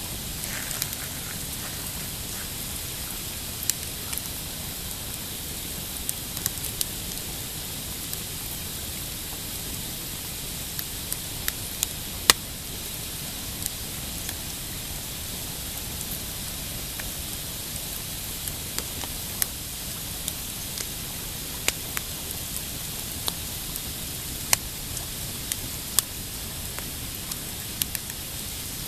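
Pine campfire crackling, with irregular sharp snaps and pops, one louder snap about twelve seconds in, over a steady hiss.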